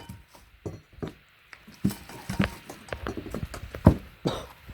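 Firewood being split with an axe: several sharp knocks of the axe biting and wood splitting, with split pieces clattering down, the loudest strike a little under four seconds in.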